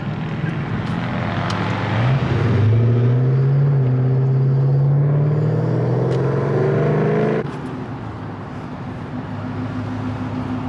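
A car engine pulling hard under acceleration, its pitch climbing steadily for about five seconds, then stopping suddenly. A lower, steady engine hum follows.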